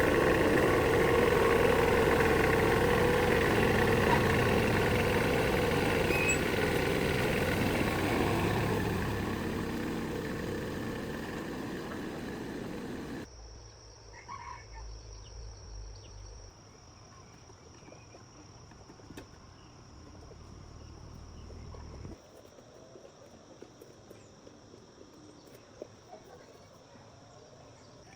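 Jeep engine running steadily and slowly getting quieter, then cutting off abruptly about halfway through. Insects, crickets among them, then chirp steadily in the quiet.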